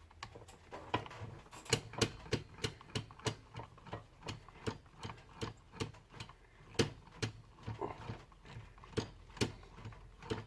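Small parts of an old angle grinder being handled and fitted during reassembly: a steady run of irregular sharp clicks and taps, about two to three a second, some louder than others.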